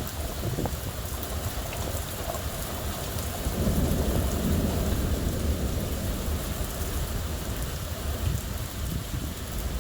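Steady heavy rain with scattered drop clicks, and a low rumble of thunder that swells about three and a half seconds in and dies away over a couple of seconds.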